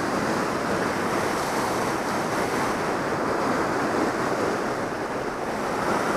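Powerful glacial waterfall and meltwater river rushing, a loud, steady roar of falling water.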